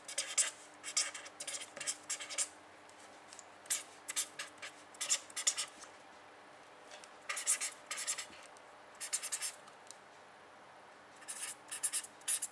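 Handwriting: a pen scratching out words in quick clusters of short strokes, with brief pauses between words.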